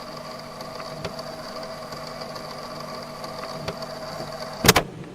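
A whirring, humming VHS tape deck, most likely a sound effect opening the music video, with a few faint clicks and a loud double clunk about four and a half seconds in.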